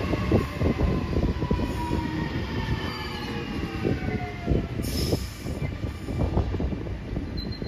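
Double-deck electric suburban train running past and away around a curve: wheels squealing and a whine that falls in pitch over about five seconds, over the rumble and clatter of wheels on the rails. A short hiss about five seconds in.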